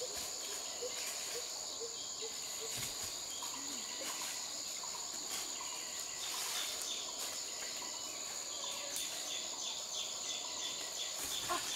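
Insects droning steadily in the forest at one high, unbroken pitch, with faint short chirps of other animals and a few scattered light clicks.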